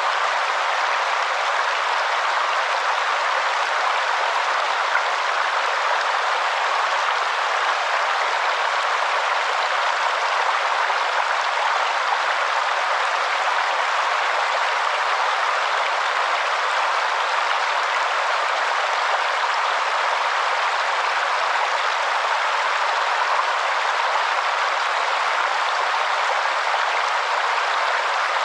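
Waterfall: a steady, unbroken rush of falling water, with no deep rumble underneath.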